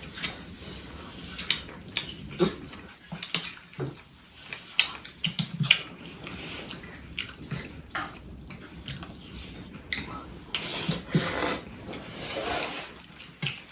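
Close-up eating sounds: wet chewing and mouth smacks as a run of short clicks and crackles, with louder noisy bursts about ten to twelve seconds in.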